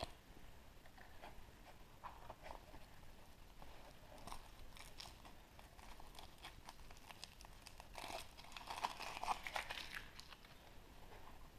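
Crinkling and small cracking clicks from a chocolate surprise egg being unwrapped from its foil and opened by hand. The crackling is busiest and loudest about eight to ten seconds in.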